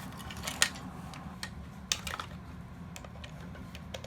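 Plastic toy-robot parts being handled and taken apart: a few scattered clicks and taps, the loudest about half a second and two seconds in, over a steady low hum.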